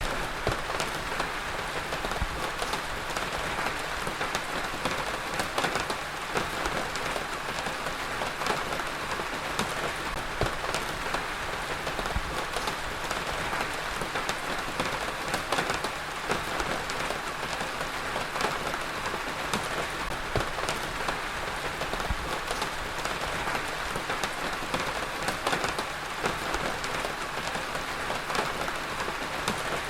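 Heavy rain falling steadily, a constant hiss with many sharp drop impacts scattered through it.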